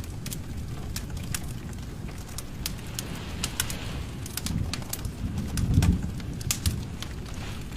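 Wood fire in a fireplace crackling: irregular sharp pops and snaps over a low rumble of flames, which swells for a moment about five seconds in.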